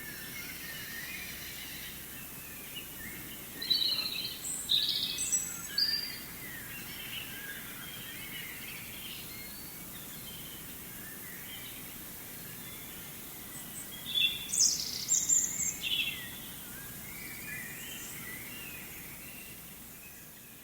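Forest ambience: a steady hiss with many distant birds chirping, and two louder bursts of bird song, about four seconds in and again about fourteen seconds in. The sound fades near the end.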